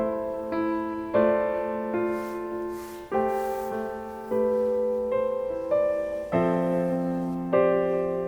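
Slow, gentle solo piano background music, with held notes and chords struck about once a second and left to fade.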